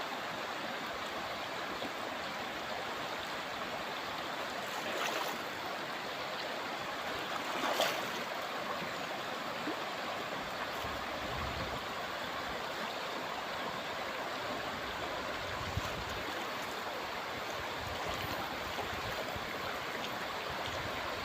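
Shallow, clear river water running steadily over stones, a continuous rushing babble, with a couple of brief splashes or knocks in the middle.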